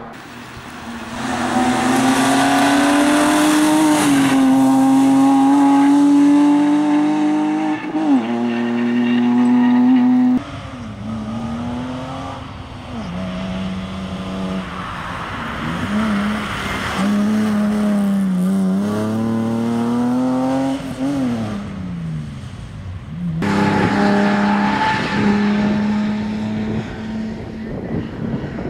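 BMW E30 rally car's engine driven hard, revs climbing and dropping through gear changes and lifts. The sound cuts abruptly twice, about ten and twenty-three seconds in.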